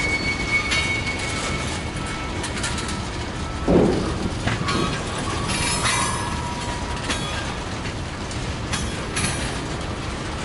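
Freight train of loaded tank cars rolling slowly past, its wheels clicking over rail joints with brief flange squeals. The first squeal is high and fades early; a lower one comes about six seconds in. A short dull thump about four seconds in is the loudest moment.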